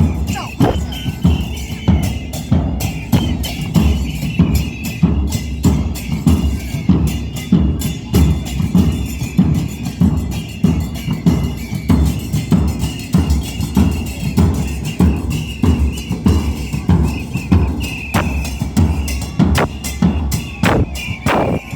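Carnival parade drum group playing bass drums and snares in a fast, dense, steady rhythm.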